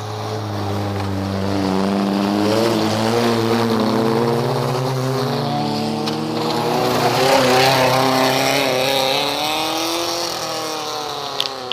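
Race cars from the 1200–1800 cc class running at high revs, their engine notes rising and falling with gear changes, growing louder over the first couple of seconds and then holding. The sound cuts off abruptly at the end.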